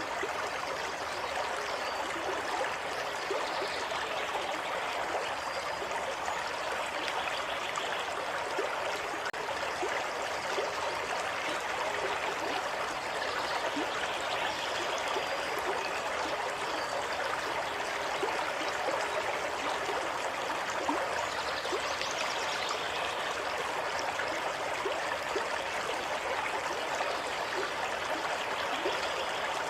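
Running water, like a small stream, flowing steadily with a constant rush and many small trickling splashes.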